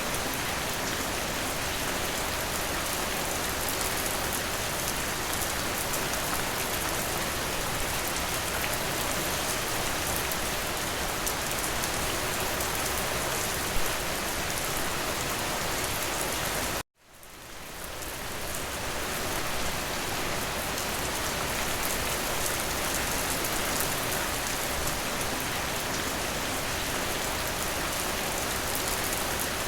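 Steady rain falling, an even dense hiss, with one brief louder tap about halfway through. About two-thirds of the way in, the rain cuts out abruptly for an instant, then fades back up over a couple of seconds.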